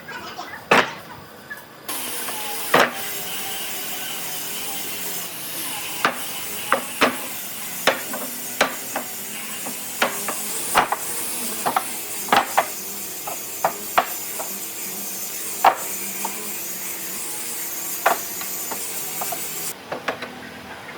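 Sharp knocks on wood at irregular intervals, over a steady hiss that starts about two seconds in and stops near the end.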